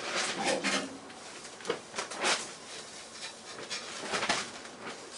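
Intermittent metallic clinks, clatters and scrapes of hand tools and steel parts as a classic Mini's front subframe is unbolted and worked loose; four or five separate bursts with short gaps between them.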